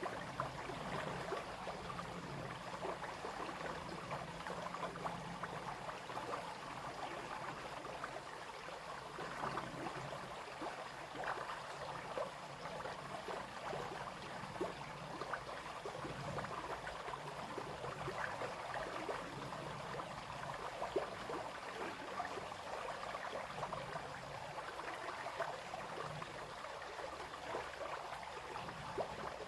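Small brook babbling and splashing steadily over stones.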